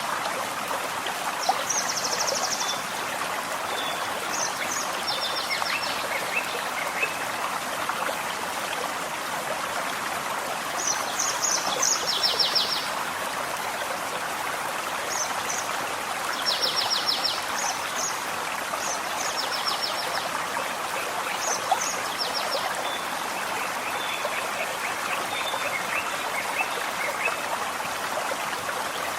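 A gentle forest stream running steadily, with songbirds repeating short, quick trills of high notes every few seconds.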